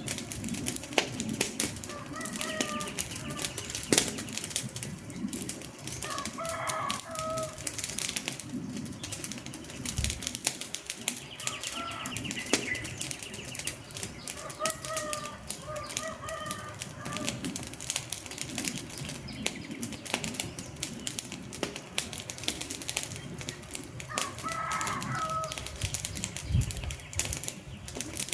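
Wood fire crackling with a dense run of sharp pops and snaps, while a bird calls in short clusters of notes several times, around 2, 6, 12, 15 and 25 seconds in.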